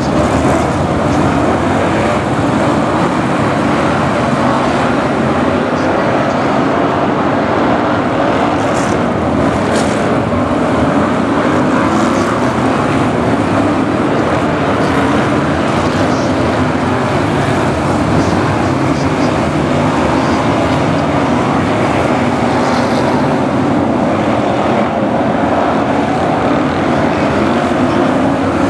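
A pack of BriSCA F1 stock cars racing, their V8 engines running loud and unbroken as one steady blend of many engines.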